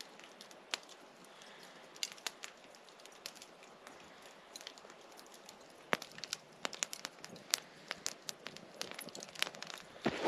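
Campfire crackling, with irregular sharp pops and snaps that come more often in the second half.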